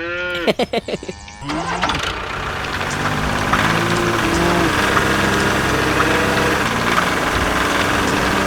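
A short cry with a sliding pitch in the first second or so, then an engine starts about two seconds in and runs steadily.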